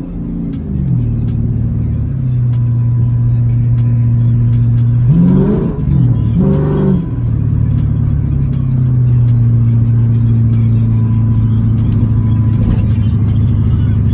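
V8 muscle-car engine running steadily, with two quick revs about five and six seconds in.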